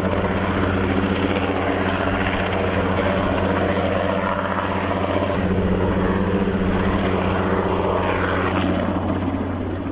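Helicopter running close by: a steady drone of rotor and engine that eases off near the end.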